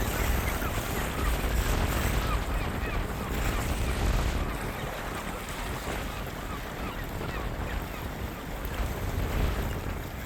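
Wind buffeting the microphone in gusts over the steady wash of waves, with faint high chirps scattered through.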